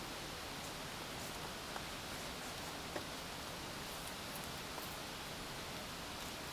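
Steady hiss of falling rain, with a few faint drips or taps, one a little louder about three seconds in.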